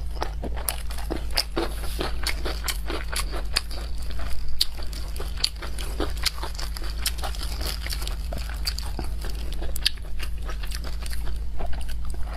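Close-miked eating of boiled dumplings: wet chewing and lip-smacking with many small mouth clicks, over a low steady hum.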